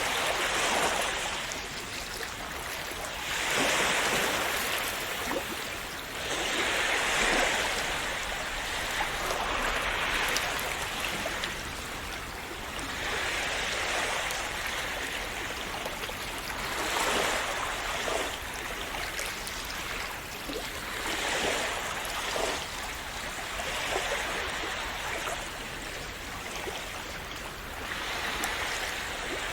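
Sea waves washing in and drawing back, a swell of surf noise every three to four seconds.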